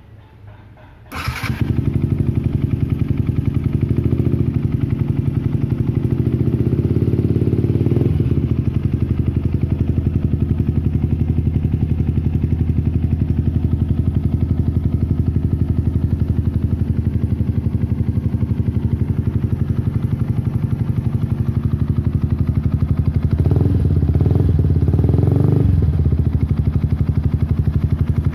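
Yamaha R15 150 single-cylinder motorcycle engine breathing through an aftermarket Akrapovic exhaust, starting suddenly about a second in and idling, a little faster for the first several seconds before settling to a steady idle. Late on, the throttle is blipped a few times in quick succession before it drops back to idle.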